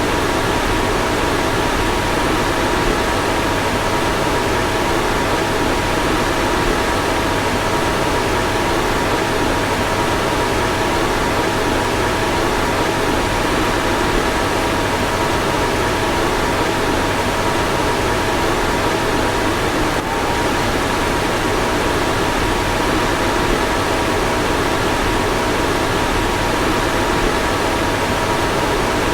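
A car's fan running steadily: an even rush of air with two faint, steady whining tones on top.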